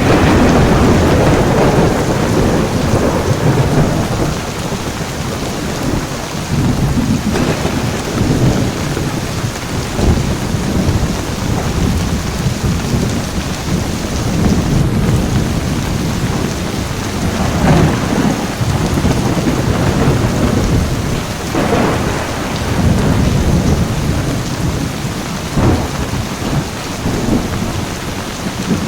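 Heavy rain falling steadily through a thunderstorm, with a loud roll of thunder at the start that fades over a few seconds, then repeated low rumbles and short crackles of thunder.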